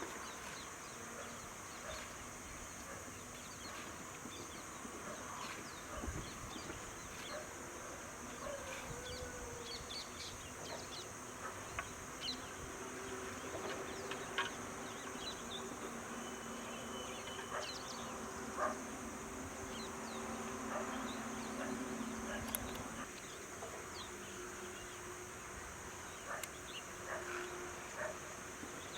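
A steady high insect drone with short bird chirps scattered throughout. For several seconds in the middle a low buzzing hum joins in.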